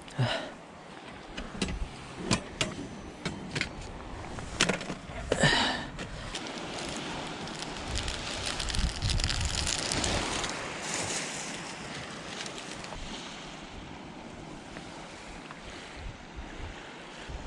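Sea waves washing onto the shore, with one wash swelling and fading about eight to twelve seconds in. A series of sharp clicks and knocks comes in the first six seconds.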